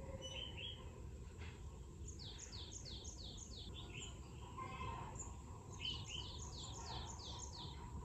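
Wild birds singing: two runs of quick descending whistled notes, about four a second, one a couple of seconds in and another near the end, with a few short chirps, over a steady low outdoor background noise.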